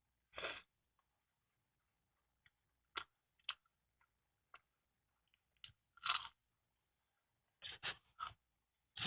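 Close-up biting and chewing of a custard-cream bungeoppang (fish-shaped pastry): short, separate mouth sounds a second or so apart, with quiet between them.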